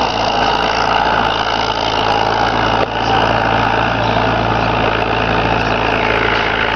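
Preet tractor's diesel engine running steadily while pulling a 21-tine cultivator, with a brief dip in level about three seconds in.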